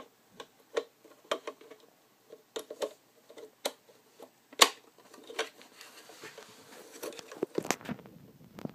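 Hard plastic parts of an external hard-drive enclosure and its stand being handled and fitted together: irregular clicks and knocks, the sharpest about four and a half seconds in, with soft rustling handling noise near the end.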